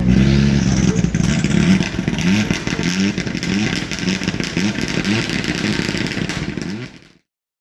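Rally car engine revving, its pitch rising in short repeated pulls about every half second to second, then cut off abruptly about seven seconds in.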